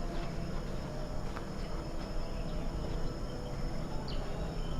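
Rainforest insects making a steady high-pitched drone over a low rumble, with one short high chirp about four seconds in.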